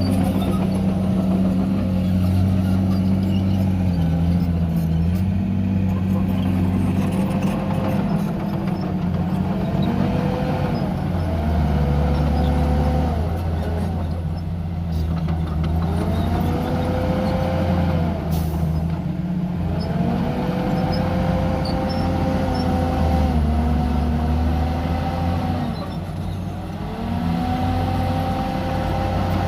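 Heavy diesel engine of a Komatsu D51PX bulldozer working under load, its note rising and falling over and over every few seconds as the revs change.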